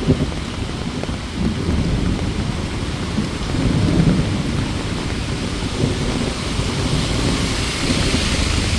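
Heavy rain falling steadily, with a low thunder rumble underneath that swells and fades several times.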